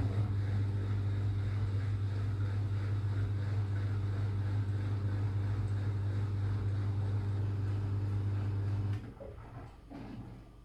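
Miele washing machine's drain pump running with a steady low hum, then cutting off suddenly about nine seconds in, leaving fainter rattles and sloshing inside the drum.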